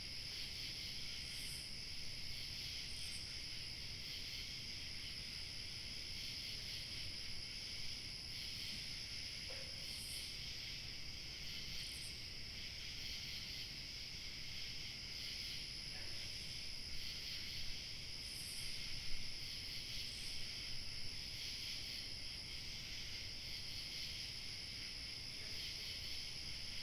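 Steady evening chorus of crickets chirping, with a thinner, higher insect trill swelling every couple of seconds over a faint low rumble of light wind.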